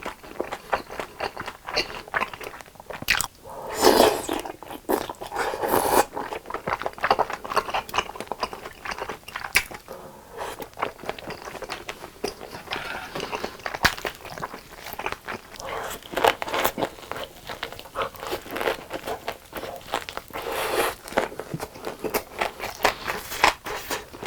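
A person chewing and biting food close to the microphone, with many quick wet mouth clicks and smacks and a louder burst about four seconds in.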